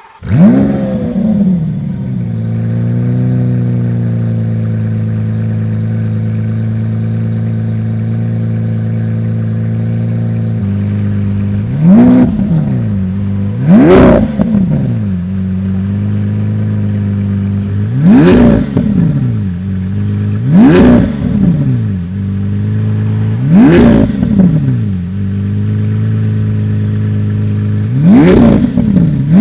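Lamborghini Aventador's 6.5-litre naturally aspirated V12 starting up, flaring briefly and settling into a steady idle. About eleven seconds in, six quick throttle blips follow, each rising in pitch and falling back to idle.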